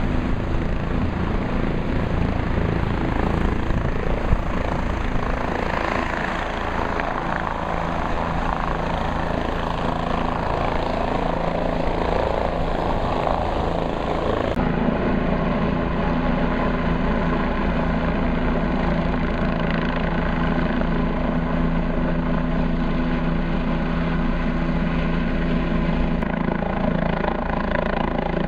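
Helicopter running steadily overhead, its rotor making a fast low beat under the engine's whine. About halfway through the sound changes abruptly and the steady whining tones stand out more clearly.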